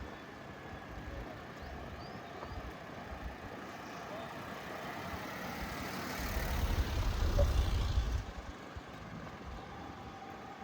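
Street traffic ambience with a motor vehicle passing close by: its engine rumble and road noise build to a loud peak about two-thirds of the way through, then drop away quickly.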